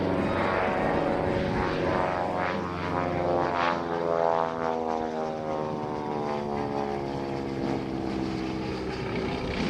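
Twin Pratt & Whitney R-985 Wasp Junior radial engines and propellers of a Beech C-45 Expeditor making a pass. The engine drone peaks about four seconds in, then falls steadily in pitch as the plane goes by.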